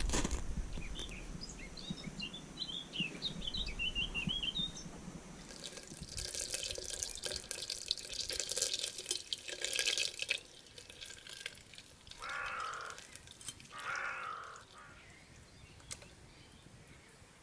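Small birds chirping and singing for the first few seconds, then about five seconds of loud rustling and handling noise, followed by two short sounds a couple of seconds apart.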